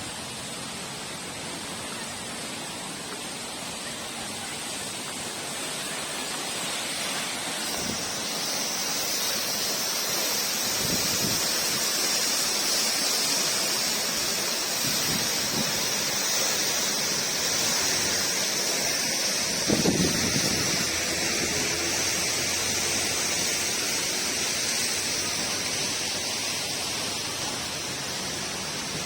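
Steady rushing roar of a tall waterfall plunging into its pool, growing louder about a quarter of the way in. A brief low rumble stands out about two-thirds through.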